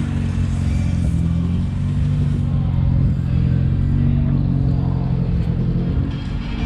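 Vehicle engine running, a loud low steady hum whose pitch shifts slightly up and down.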